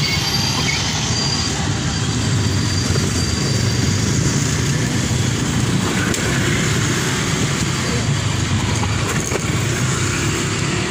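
Passenger train coaches rolling past on the rails and moving away: a steady rumbling noise. A thin high tone is heard in the first second or so.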